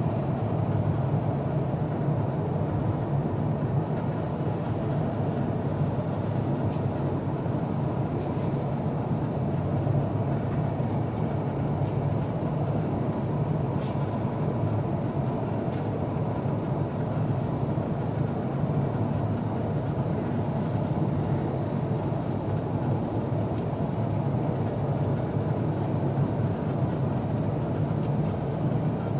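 Steady cabin noise inside an Airbus A350-900 airliner in flight: an even low rumble of engines and airflow, with a few faint clicks.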